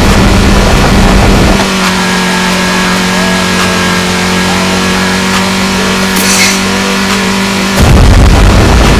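A car engine revving hard, dropping after about a second and a half to a steady, even hum for about six seconds, then revving hard again near the end.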